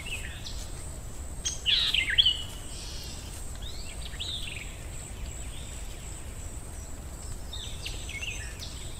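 Forest ambience: birds chirping in short bursts of quick rising and falling calls, a few seconds apart, over a steady low rumble and a faint steady high tone.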